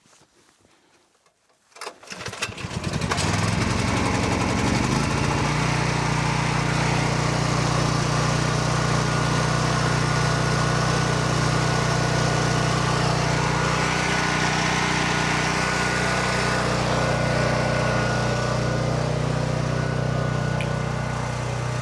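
A generator engine starts about two seconds in, speeds up over the next couple of seconds, then runs steadily, here to charge the off-grid battery bank.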